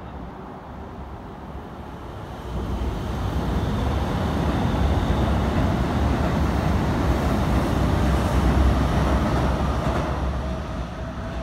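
Keikyu 1500-series eight-car train passing on the rails, a deep rumble of wheels and running gear that swells about two and a half seconds in, stays loud most of the way, and eases off near the end.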